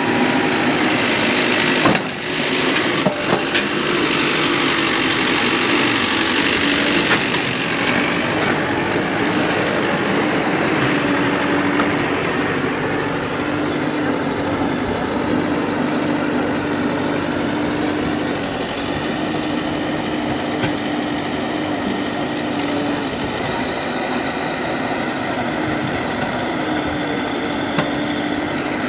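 Heavy diesel machine engine running steadily, its note dipping slightly about ten seconds in, with a few sharp knocks about two to three seconds in.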